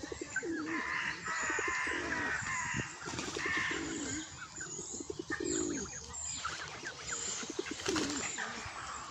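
Several birds calling at once: repeated short, low cooing calls mixed with higher chirps and peeps.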